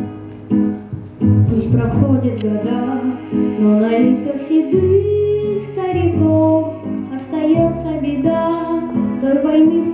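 A child's voice singing a slow song over an instrumental backing track.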